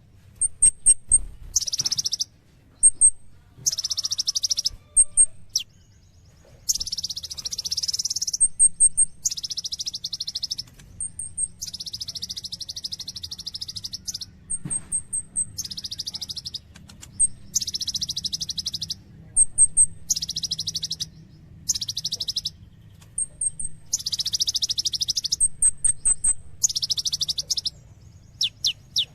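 Kolibri ninja (Van Hasselt's sunbird) singing actively: repeated bursts of fast, high, buzzy trills, each one to two seconds long, with short, very high chips in between.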